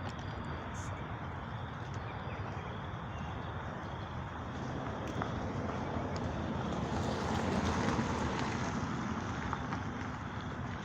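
Steady rushing outdoor background noise with no clear single source, swelling for a couple of seconds about seven seconds in before settling again.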